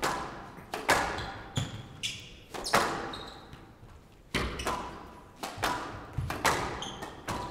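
Squash rally: the ball is struck hard and smacks off the court walls about once a second, each hit echoing around the court. Short high squeaks between the hits.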